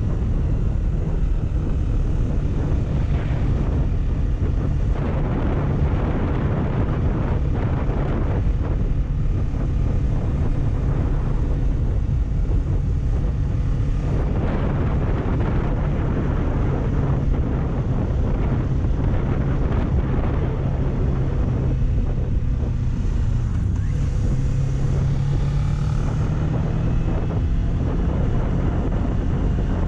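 Kawasaki Ninja 400 parallel-twin engine running steadily under way, with heavy wind buffeting on the microphone. The engine note rises briefly about three-quarters of the way through.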